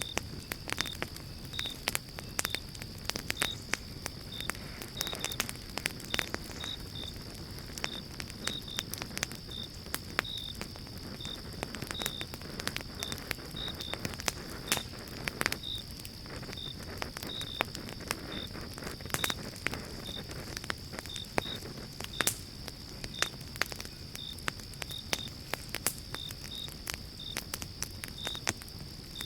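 Pine-log campfire crackling, with many sharp pops over a low hiss of burning. Behind it a steady high insect trill, with small chirps about twice a second.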